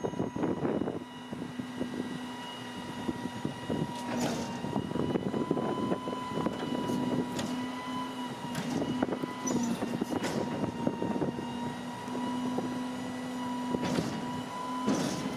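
Peterbilt garbage truck's engine and crane hydraulics running with a steady whine that sets in about a second in, under a constant rumble. Several sharp metal clanks come at intervals.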